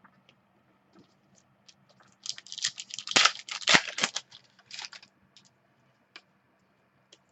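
Trading cards and their packaging being handled on a table: a few scattered clicks, then a run of crinkling and rustling from about two seconds in, as the next pack is opened and its cards are sorted, with a shorter burst a little later.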